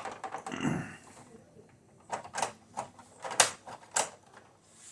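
Hard plastic parts of a 1986 Cobra Night Raven toy jet clicking and knocking as they are handled, with a few sharp clicks and a brief rustle near the start; the loudest click comes about three and a half seconds in.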